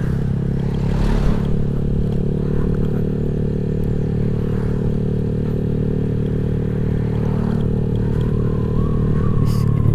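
Honda Vario 150 scooter's single-cylinder four-stroke engine, fitted with a Black Devil R2 Seca aftermarket exhaust, running steadily while being ridden, getting a little louder near the end as the throttle opens.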